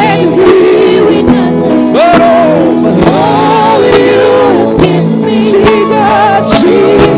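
Gospel worship music: sustained keyboard chords with drum hits and a wavering singing voice over them.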